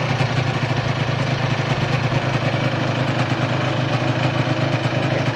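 Honda NS125R's two-stroke single-cylinder engine idling steadily.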